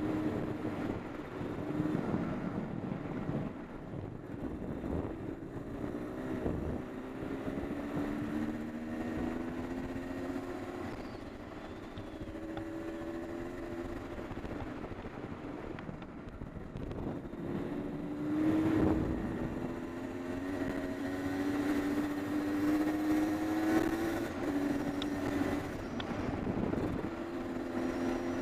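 Honda CR250R's 250cc two-stroke single-cylinder engine under way on a dirt trail, heard from the rider's helmet. Its pitch climbs in repeated rising runs as the throttle is opened and drops back between them, with a sudden jolt about two-thirds of the way through.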